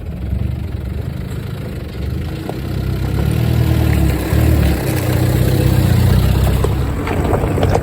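Off-road 4x4's engine running under load, growing louder about two and a half seconds in, with its pitch rising and falling as it revs.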